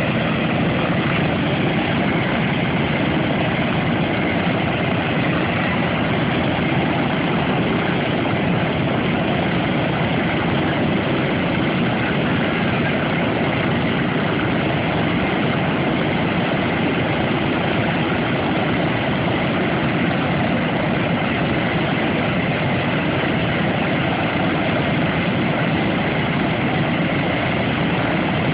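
Steady drone of a Boeing B-17 Flying Fortress's four Wright R-1820 Cyclone radial engines, holding an even pitch and level throughout.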